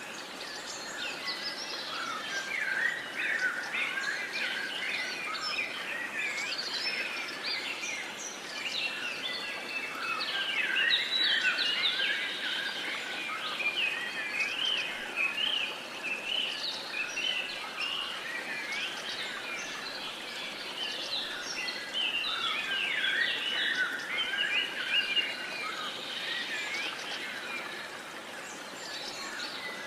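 A dense chorus of many songbirds chirping and singing at once, short overlapping calls and quick pitch glides throughout, over a faint steady background hiss.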